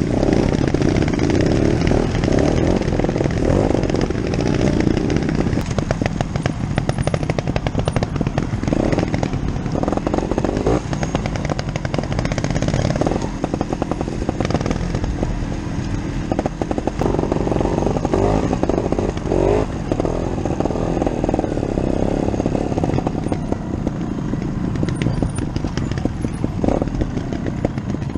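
Two-stroke trial motorcycle engines running at low speed on a rough trail, the nearest a Scorpa 250, with a rapid popping beat whose loudness rises and falls with the throttle.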